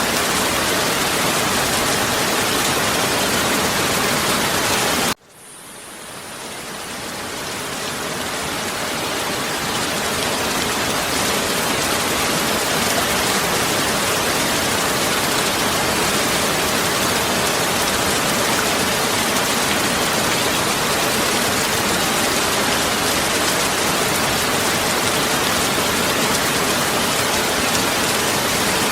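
Heavy rain falling in a steady, even hiss. About five seconds in it cuts out suddenly, then fades back in over several seconds and runs steadily again.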